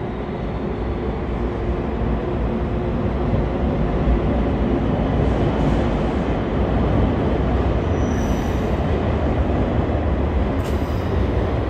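A train running by, a loud steady rumble with a deep low end that builds slightly over the first few seconds.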